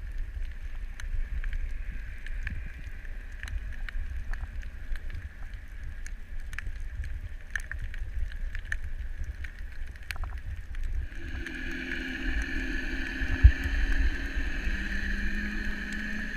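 Underwater sound on a coral reef: a low water rumble with scattered sharp clicks. About eleven seconds in, a steady multi-toned hum joins, like a distant boat engine heard through the water.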